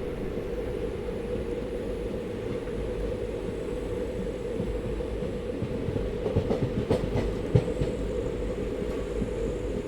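Passenger train running along the track with a steady low rumble. About six seconds in, a short run of wheel clicks and knocks over rail joints comes through, the loudest near the end of the run.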